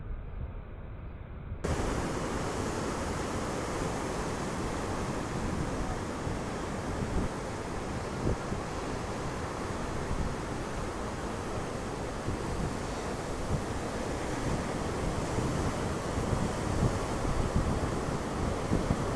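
Steady rush of ocean surf mixed with wind blowing on the microphone, quieter at first and louder from about two seconds in.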